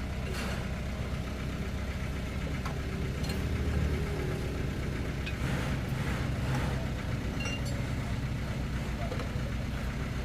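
Vehicle engine idling steadily, with a few light clicks over it.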